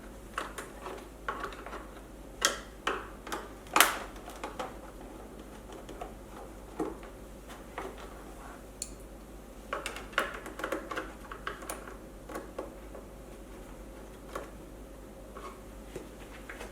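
Irregular clicks and light knocks of hand tools and small parts being handled while a cover box is unscrewed and removed, the sharpest knock about four seconds in.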